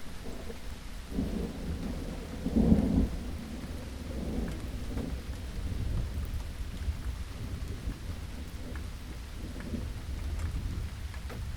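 Steady rain with a low rumble of thunder, which swells to a louder roll about two to three seconds in and then settles back.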